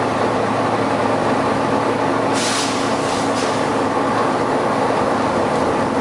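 Volvo B9TL double-decker bus running with its cooling fan very loud, a steady heavy drone. A short air hiss from the bus's compressed-air system cuts in about two and a half seconds in, with a fainter one a second later.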